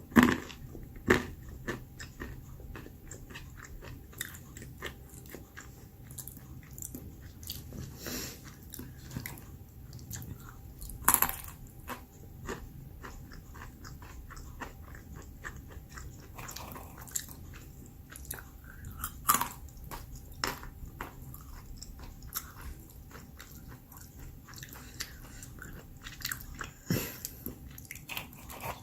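Almonds being bitten and chewed: irregular sharp crunches, a few of them loud, with softer chewing between.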